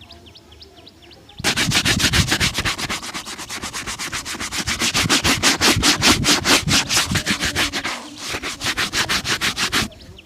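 A leather shoe being buffed with fast back-and-forth strokes, about seven a second. The strokes start about a second and a half in and stop near the end.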